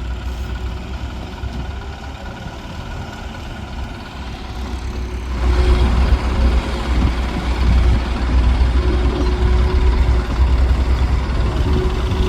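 Heavy diesel engines of a crawler excavator and farm tractors running. About five seconds in, the sound suddenly gets much louder and fuller, as a machine is revved or put under load, and it stays loud after that.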